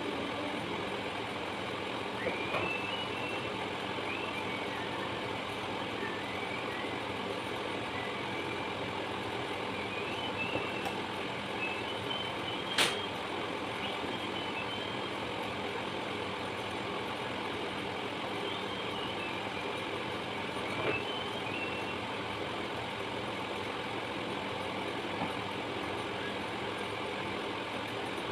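A steady machine hum, with faint wavering high chirps now and then and one sharp click about halfway through.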